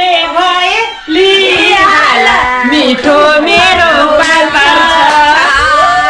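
Background song: a high-pitched singing voice carrying a wavering melody over music.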